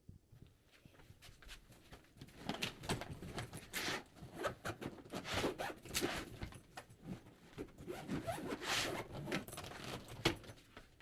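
Close handling noise: a dense, irregular run of rustles and clicks, like a bag or clothing being handled, starting about two seconds in and stopping shortly before the end.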